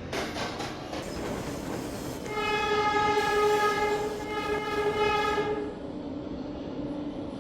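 Subway train running through the station, then its horn sounding one long steady blast of about three seconds.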